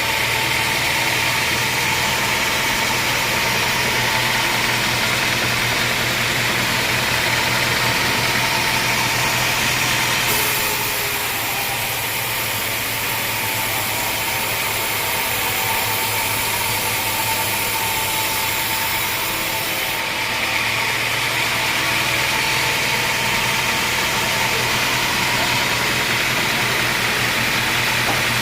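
Homemade band sawmill running with a steady engine drone and a bright hiss on top. About ten seconds in the sound drops a little and thins, then returns to its former level about twenty seconds in.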